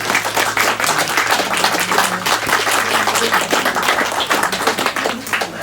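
A small crowd clapping and applauding steadily.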